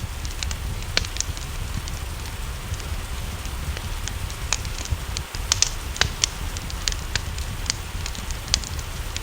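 Wood fire in a fireplace crackling, with sharp pops at irregular moments. Behind it is a steady hiss of rain and a low rumble.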